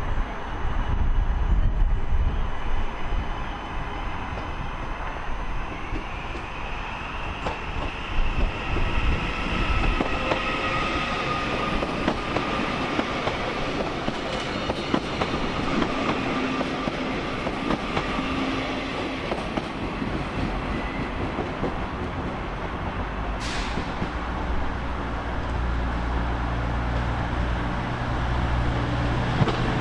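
Electric passenger train moving along a station platform, its running gear rumbling, with a whining tone that rises and then eases off, and a brief high squeal about two-thirds of the way through.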